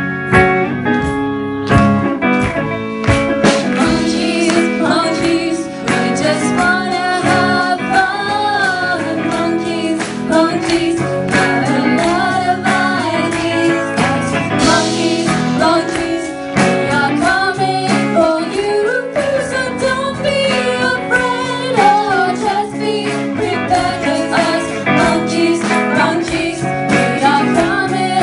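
A pop-style song with a steady beat: an instrumental intro, then sung vocals come in a few seconds in over the backing.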